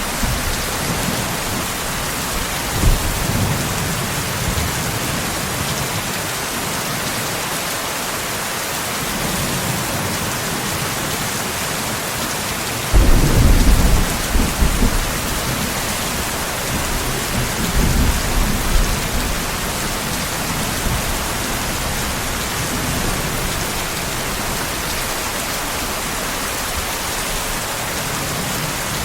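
Steady heavy rain with rumbles of thunder. The loudest rumble starts suddenly about halfway through, with lesser ones near the start and a few seconds after the big one.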